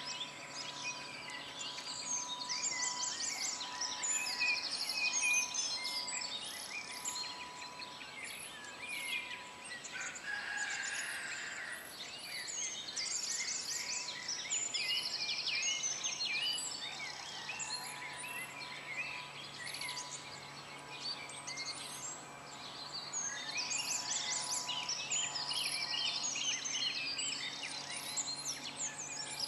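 Birds singing and calling, a dense chorus of high chirps and trills.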